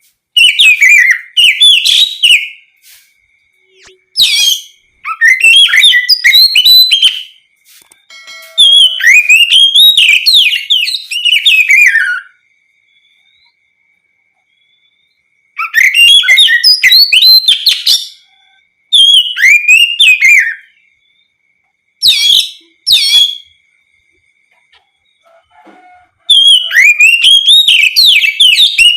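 An Oriental magpie-robin (kacer) singing loudly in bursts of rich, fast whistled phrases, each lasting a second to a few seconds, with short pauses between them.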